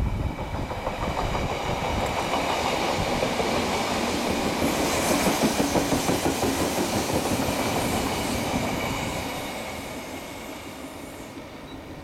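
Odakyu Romancecar 60000 series MSE electric train passing by, its wheels clattering over the rail joints with a continuous rumble. The sound fades near the end as the last car goes by.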